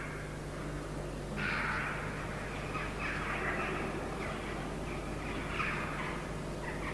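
Harsh, cawing bird calls, three of them, each about half a second long, over a faint low steady hum.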